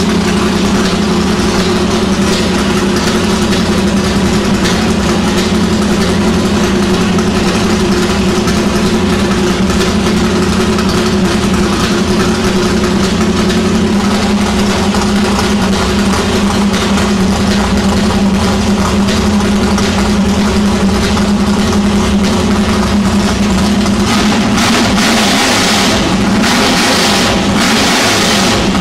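370 cubic inch Ford Windsor V8 with twin carburettors, in a 1966 Ford Falcon XR drag ute, idling steadily and loudly on its first start-up. Near the end, several short surges of rushing noise rise over the idle.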